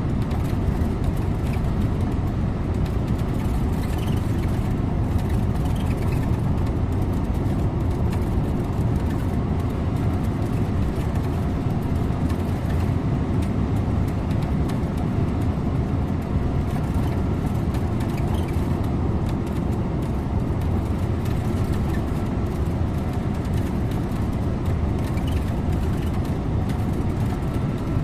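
Scania InterLink bus running along the road: a steady drone of engine and tyre noise that does not rise or fall.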